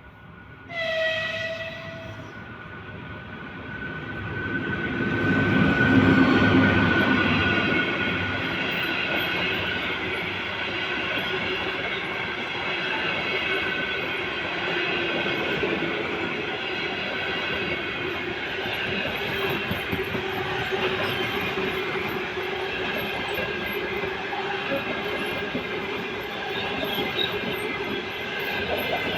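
EP1P electric locomotive giving a short horn signal about a second in, then the locomotive and its train of passenger cars passing close by, with a steady rolling noise of wheels on the rails.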